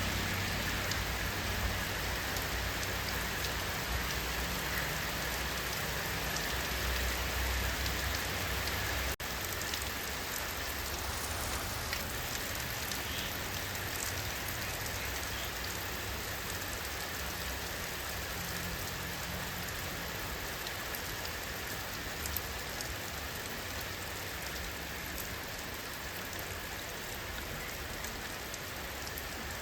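Steady rainfall, an even hiss of drops on surfaces. The sound briefly dips about nine seconds in, and the low rumble is lighter after that.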